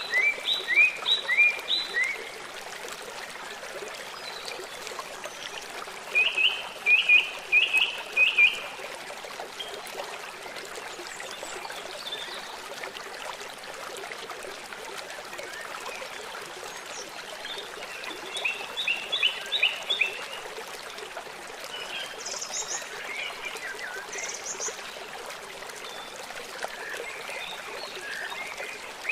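A river running steadily, with a songbird singing a short phrase of quick, falling, whistled notes four times, and a few higher chirps in between.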